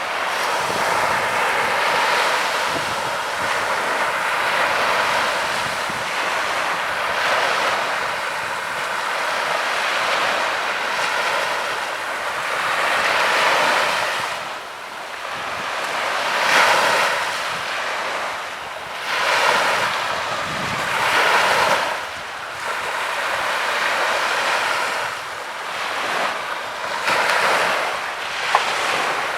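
Small waves breaking and washing up on a sandy beach, a continuous surf wash that swells and fades every few seconds, with some wind buffeting the microphone.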